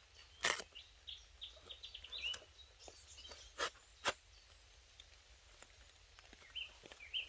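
Several sharp clicks and knocks, the loudest about half a second, three and a half and four seconds in, as a camping stove is handled and packed away. A small bird chirps in quick short runs around two seconds in and again near the end.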